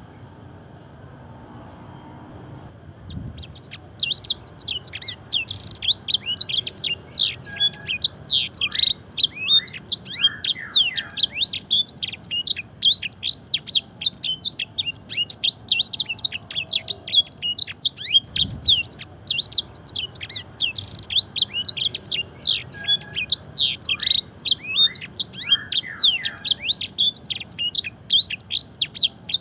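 Domestic canary singing a fast, unbroken song of rapid, high down-sweeping notes, its song filled with learned blackthroat phrases. The song starts about three seconds in, after a faint steady background hiss.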